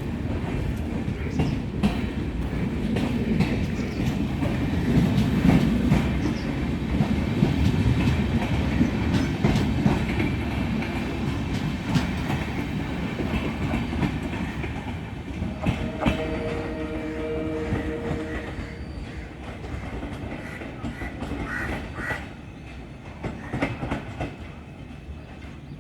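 Express passenger train rolling past on the track, its wheels clicking rhythmically over the rail joints with a heavy rumble. The rumble fades over the last third as the train draws away. A brief steady tone is heard about two-thirds of the way through.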